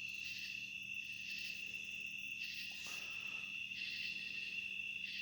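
Night chorus of crickets trilling steadily, a continuous high-pitched chirring with a faint pulsing layer above it.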